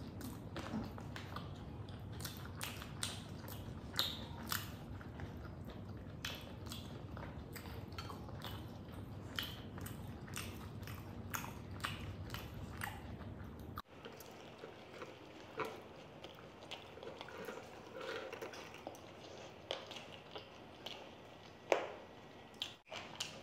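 Close-up chewing and mouth sounds of people eating by hand: many short smacks and clicks, several a second, as they eat noodles and saucy chilli chicken. A low background hum cuts out about halfway through.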